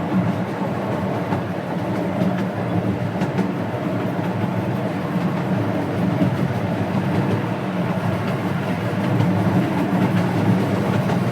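12-inch gauge steam locomotive hauling its train along the track, a steady running rumble with faint scattered clicks from the wheels and rails.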